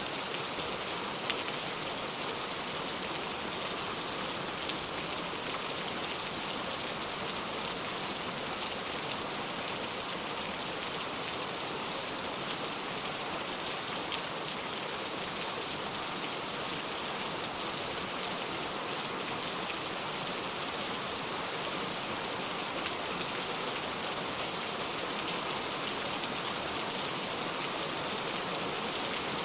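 Steady rain falling on the ground, an even hiss with scattered individual drops ticking through it.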